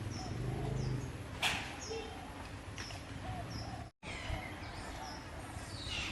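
Outdoor ambience with repeated short, high chirping calls, over a low hum in the first second. A sharp click comes about one and a half seconds in, the sound drops out briefly near four seconds, and a falling chirp comes near the end.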